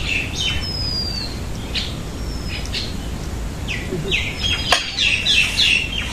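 Several small birds chirping in short calls, with one falling whistle about a second in and a quick run of chirps near the end. A single sharp click, the loudest sound, comes a little before the end.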